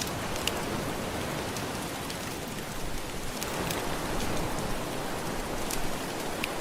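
Soft ocean waves washing steadily, swelling a little in the middle, with a few sharp pops of a crackling wood fire.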